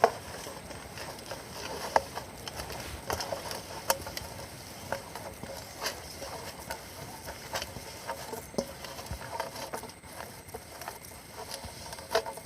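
Dry spice masala (chilli powder, turmeric, rice flour, ginger-garlic paste, lemon juice) being stirred and mixed in a bowl, with irregular soft clicks and taps.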